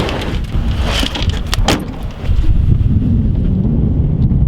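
Strong wind buffeting the microphone, an uneven low rumble, with a few knocks and clatters in the first couple of seconds.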